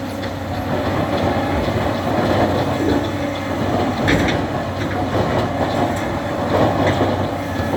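Tractor's diesel engine running steadily under load, with scattered knocks from the loader working; the sharpest knock comes about four seconds in.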